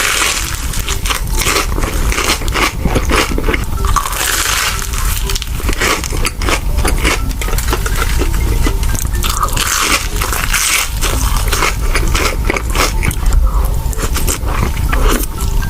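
Crunchy bites and chewing of a fried Korean corn dog, with many crisp crackles in quick, irregular succession.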